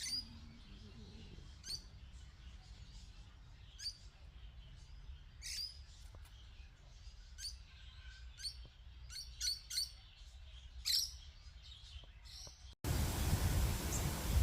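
Small birds chirping: short high calls every second or two, over a low steady hum. Near the end it cuts suddenly to a louder, steady rushing noise.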